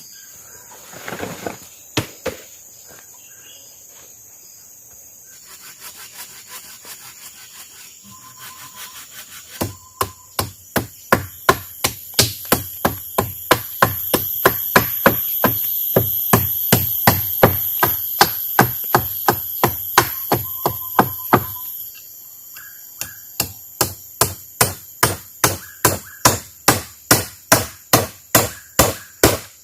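Wood being struck again and again, chopping or pounding, in fast even blows about two or three a second. The blows start about ten seconds in, after some quieter scattered taps, over a steady high drone of forest insects.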